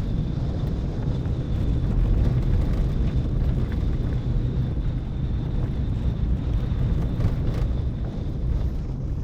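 Steady road noise of a moving car heard from inside the cabin: tyre and engine rumble, with some wind on the microphone and a faint steady high whine.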